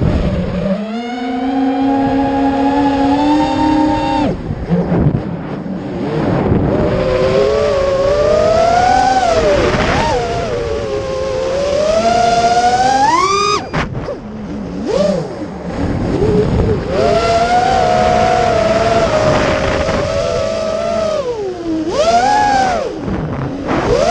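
Racer Lion 210's engine running under changing throttle, its pitch rising and falling again and again as it revs up and eases off, with one steep climb that drops off suddenly about halfway through.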